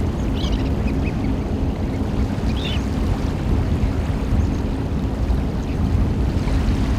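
Eurasian oystercatchers giving short, high piping calls: a quick few in the first second and one more near the three-second mark. A loud, steady low rumble runs underneath.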